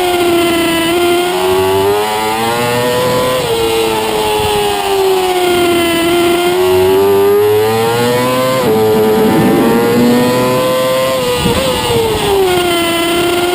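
Superbike engine at racing speed. The revs climb and fall repeatedly, breaking off sharply about 3.5 s and 8.7 s in and dropping again near the end.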